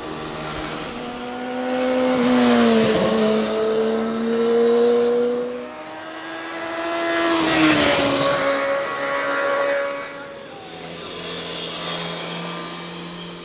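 Motorcycles passing at speed one after another, two loud pass-bys about five seconds apart, the engine pitch dropping as each goes by.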